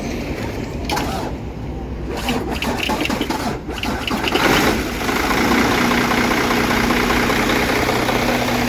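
Diesel semi-truck engine cranking and catching, then settling into a steady idle about five seconds in. The start sounds like the batteries or alternator are weak, after the truck has sat unused for a long time.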